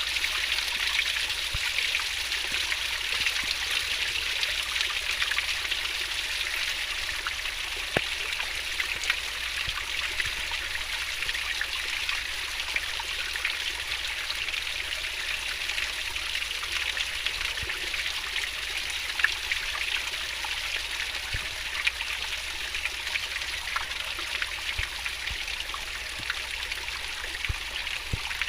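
Stream water flowing fast over its bed: a steady rush with small splashes.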